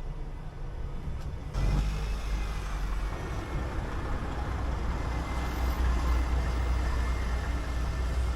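City bus engine and road noise. About a second and a half in it steps up sharply and stays louder as the bus pulls away and accelerates, with a faint steady whine above it.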